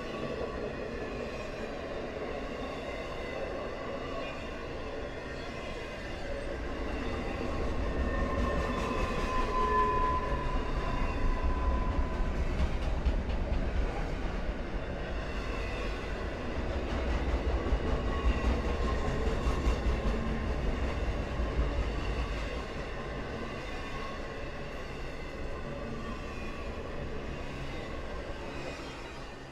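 Freight train cars rolling past with a steady rumble of wheels on rail, swelling louder for a while in the middle and easing off near the end, with a brief thin squeal about ten seconds in.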